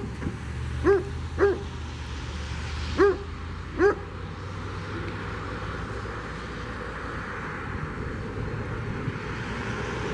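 A dog barking, five short sharp barks in the first four seconds, over a low steady rumble. A hiss of noise builds through the second half.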